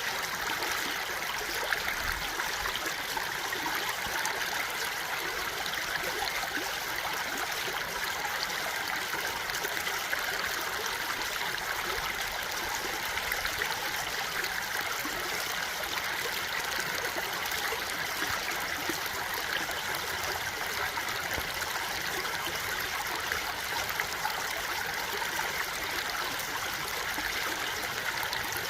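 A stream of water running steadily over rocks, a continuous even babble.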